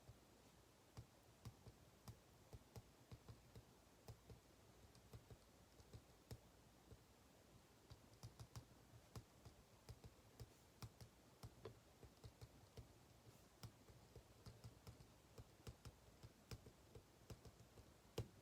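Faint, irregular keyboard typing: quick clicks a few times a second, with short pauses.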